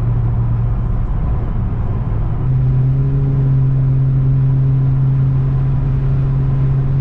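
Car engine and exhaust droning steadily while driving, stepping up slightly in pitch about two and a half seconds in as the revs rise a little.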